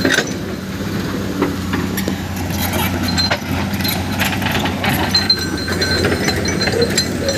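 Heavy construction machinery's diesel engine running steadily, with scattered metallic clinks and knocks throughout and a short high squeak repeating from about five seconds in.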